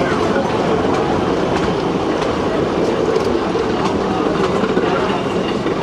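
Swiss mountain railway train running along the track: a steady rumble and rattle with scattered clicks from the wheels.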